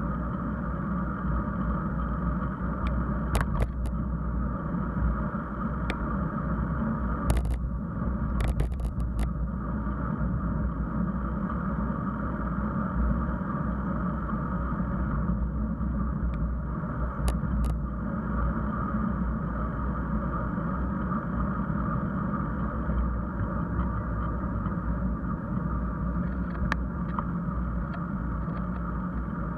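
Steady wind and road noise from riding a bicycle, with a few sharp clicks and rattles.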